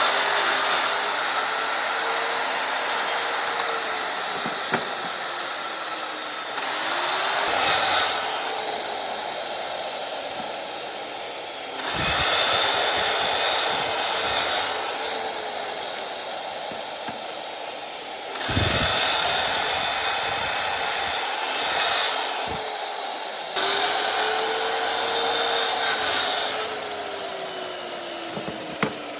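Electric power tool working wood, its motor tone sagging and recovering as it is pressed into the wood, in repeated passes every five or six seconds.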